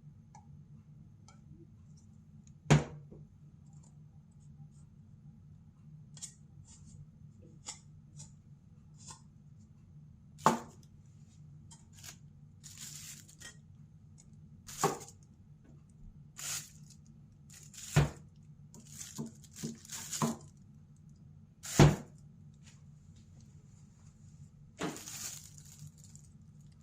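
Bottles and containers being handled: scattered clicks, a few short rustles and several sharp knocks, the loudest about 3, 10, 18 and 22 seconds in, over a low steady hum.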